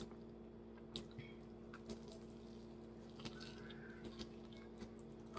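Faint chewing of chicken, with a few scattered small mouth clicks and crackles, over a steady low electrical hum.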